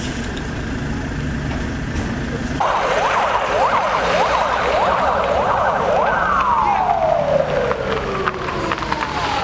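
Emergency vehicle siren sounding a fast up-and-down yelp, about two sweeps a second, that starts suddenly a few seconds in, then switches to one long falling wail that winds down, heard over a car's engine and road rumble.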